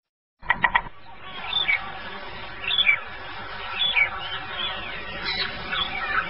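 Bird calls: short, high chirps that slide downward, repeating about once a second over a steady hiss of background noise. The sound opens with four quick sharp clicks.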